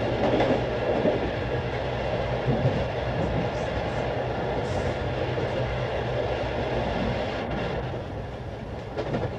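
Train running on the rails: a steady rumble of the train in motion, easing a little in level near the end as it leaves a tunnel.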